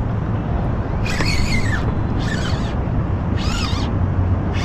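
Four short, squeaky animal calls about a second apart, each a quick rising-and-falling glide, over a steady low hum.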